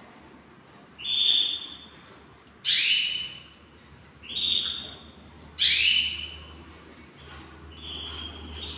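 Canaries calling: four loud, clear whistled call notes about a second and a half apart, followed near the end by softer, continuous twittering.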